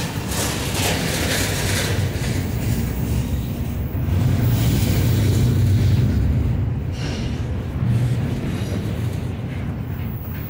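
Norfolk Southern freight train rolling past, a loud, steady low rumble of the railcars that swells a little around the middle.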